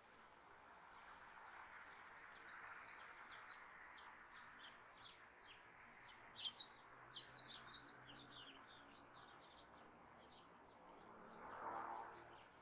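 Faint songbirds chirping, a quick run of short high chirps through the middle. A soft rushing noise swells and fades near the end.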